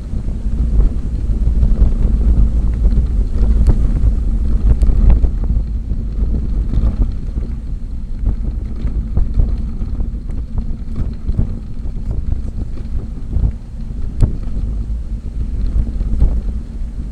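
Wind buffeting the microphone as a loud, steady low rumble, with scattered short clicks and knocks.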